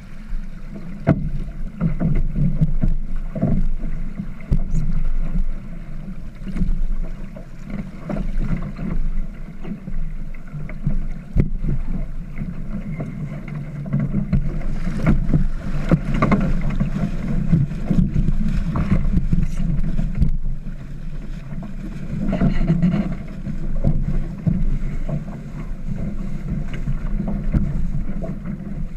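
Wind rushing over the microphone and water noise aboard a small sailboat under sail, uneven and gusting, with scattered light knocks.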